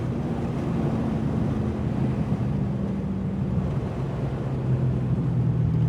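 Straight-piped 6.4-litre HEMI V8 of a 2020 Dodge Charger Scat Pack running at low, steady revs, a low exhaust drone with road and wind noise.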